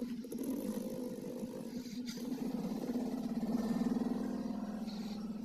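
Dog snoring: a continuous low buzz that swells and is loudest about four seconds in.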